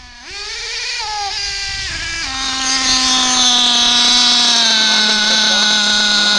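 Small nitro-methanol engine of an RC buggy running at high pitch. It revs up briefly near the start, then settles into a steady drone that slowly drops in pitch while growing louder.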